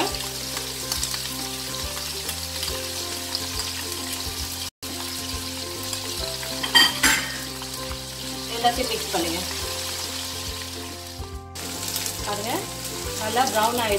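Sliced shallots and ginger-garlic paste sizzling in hot oil in a wok, stirred with a wooden spatula. The sizzle is steady and cuts out for an instant twice.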